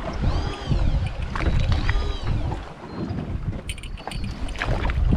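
Wind and water noise on a small fishing boat, with a steady low rumble. In the first half a squeak that rises and falls in pitch repeats about every second and a half, and light ticks follow near the end.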